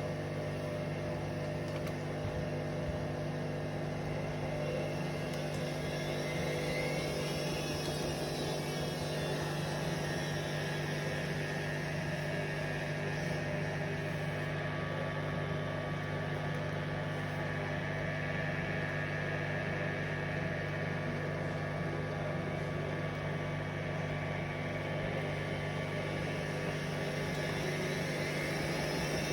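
Hoover Vision Dynamic washing machine on a spin-only cycle, the drum spinning once the load has balanced: a steady motor hum with a faint high whine sweeping up and down.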